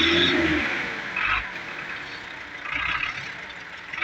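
Tractor engine running, with several short bursts of harsher, hissing noise over a low steady rumble.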